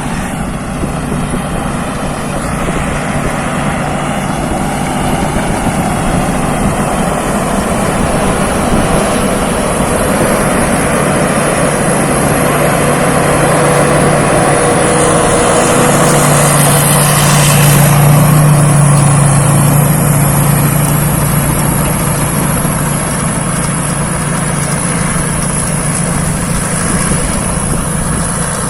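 Thai Seng Yon rice combine harvester running steadily while harvesting, its engine hum and a constant high whine carrying throughout. It grows louder around the middle, then eases off again.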